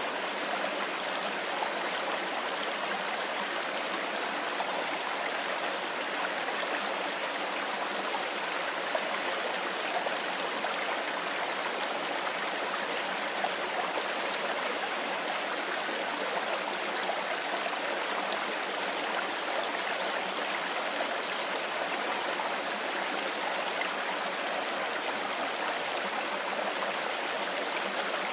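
A mountain stream flowing over stones: a steady, unbroken rush of water.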